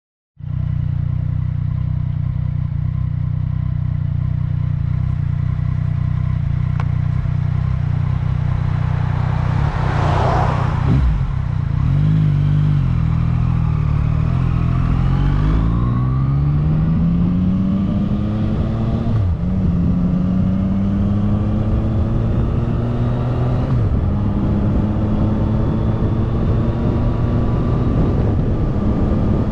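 Yamaha MT-09 Tracer's inline-three engine idling steadily, then pulling away: a brief rushing noise about ten seconds in, then the engine note rises, drops twice at gear changes, and settles into a steady cruise.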